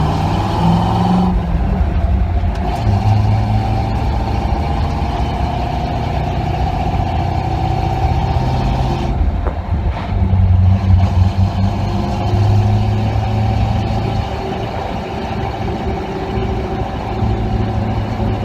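1967 Chevy C20 pickup's engine running through new MagnaFlow Rumbler mufflers as the truck drives along, heard from the truck bed. The exhaust note holds steady and swells louder for a few seconds about ten seconds in.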